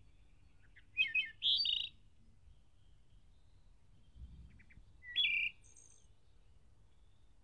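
Bird calling: two short bursts of chirping notes, the first about a second in and the second about five seconds in.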